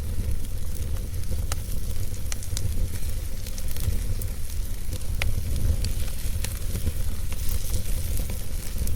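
Wood fire crackling, with sharp pops scattered irregularly, roughly one or two a second, over a steady low rumble and hiss.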